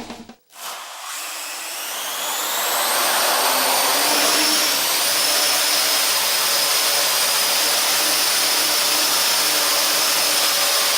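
Parrot AR.Drone quadcopter's electric rotors spinning up with a rising whine, then holding a steady loud whine as it hovers.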